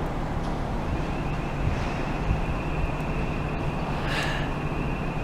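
Wind buffeting the microphone over a steady low outdoor rumble. A thin, steady high-pitched tone comes in about a second in and holds, with a brief brighter hiss near the end.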